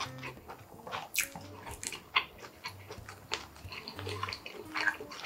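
Close-up eating sounds of a mouthful of yakisoba noodles and steak: repeated wet chewing smacks and clicks, with a few short low hums.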